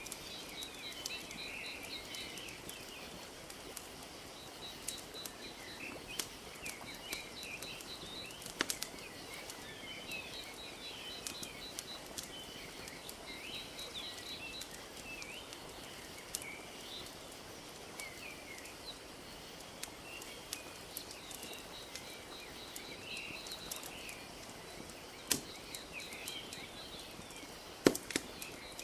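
Wood fire crackling with scattered sharp pops, the two loudest near the end, over a soft steady wash of lapping lake water. Birds chirp throughout, with a high trill repeating every few seconds.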